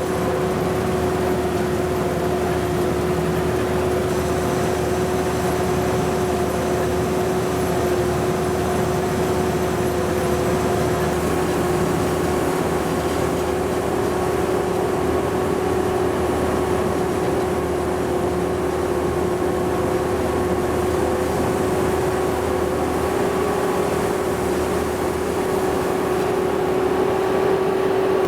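Sakpattana KM-D#1 rice combine harvester running steadily at work in paddy, its engine and threshing machinery giving a constant mechanical hum with a steady whine that holds one pitch.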